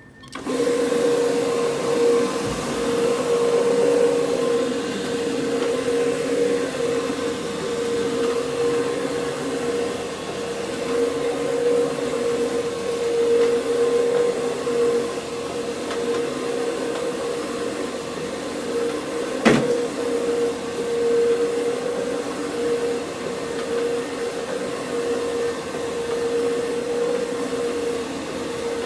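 CRB (counter-rotating brush) carpet scrubbing machine running steadily over carpet, its motor giving a steady hum. A single sharp click about two-thirds of the way through.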